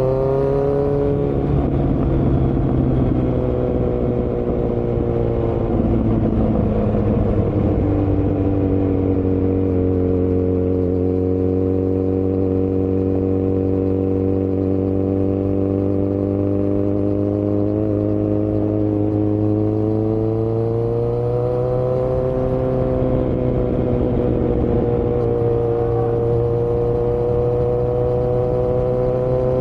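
2018 Kawasaki Z900's inline-four engine, breathing through Delkevic headers and a Yoshimura muffler with the dB killer removed, on the move at fairly steady revs. The revs ease down in the first couple of seconds, hold steady, then rise a little about two-thirds of the way through and hold again.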